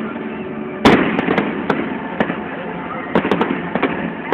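Aerial fireworks going off: one loud bang about a second in, followed by a scatter of sharp cracks and pops, over the hum of a crowd.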